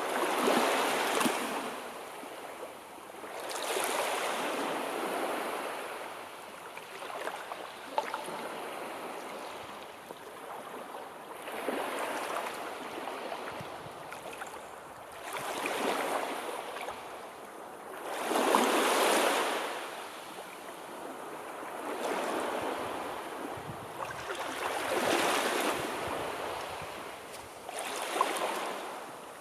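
Sea waves washing in and breaking: a hissing surf that swells and falls back about every three to four seconds, about eight times.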